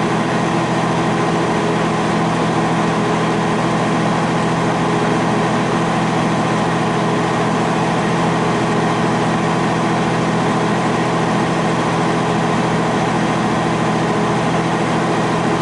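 Steady drone of a semi-truck's diesel engine and road noise heard inside the cab while driving, hauling about 35 tons.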